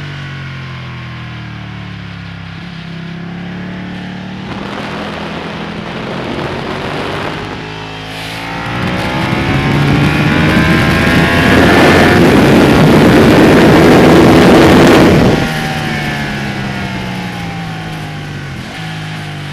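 Ducati Panigale's V-twin engine on track, its note falling as the bike slows, then building under acceleration. After a brief lull about eight seconds in, it pulls hard to its loudest for several seconds, then cuts off suddenly as the throttle closes, and the note falls away.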